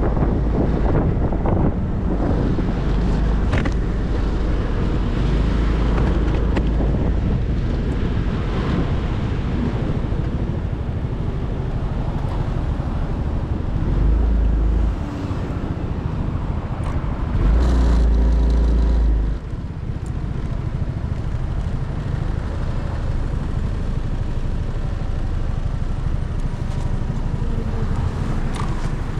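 Motorcycle riding on the road, its engine running under a steady rush of wind noise on the microphone. Twice near the middle a heavier low rumble swells for a second or two.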